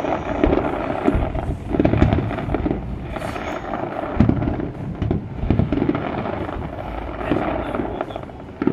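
Aerial fireworks display: shells bursting in a run of low booms about once or twice a second, with dense crackling between them.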